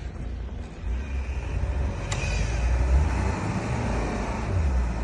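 SUV engine running with a steady low rumble as the vehicle works in deep snow, with a short sharp click about two seconds in.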